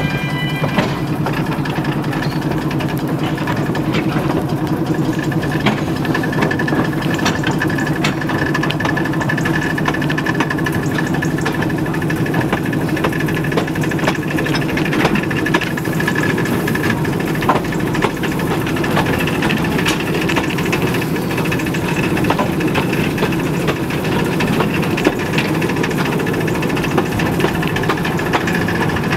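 Narrow-gauge train running slowly, heard from the carriage: a steady low rumble with a thin high whine that comes in a few seconds in, and scattered light clicks.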